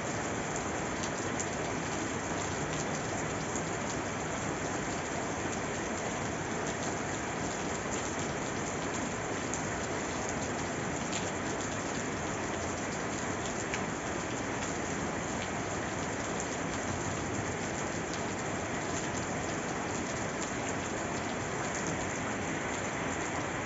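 Steady rain falling on a surface, a dense even patter with scattered individual drops.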